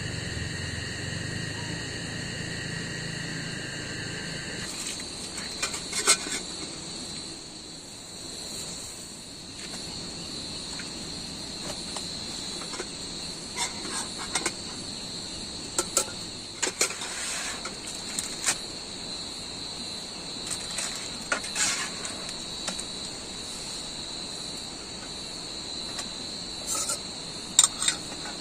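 Crickets or similar insects trilling steadily at a high pitch, with a second, lower trill and a low hum that stop about five seconds in. Scattered sharp clicks and knocks, the loudest sounds, come and go over the insects.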